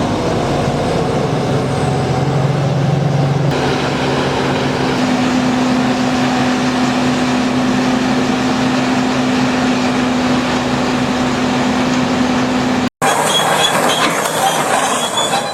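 Heavy machinery running steadily, a loud machine din with a held engine hum. The sound changes abruptly about three and a half seconds in and again near the end, after a brief dropout, as one machine clip gives way to the next.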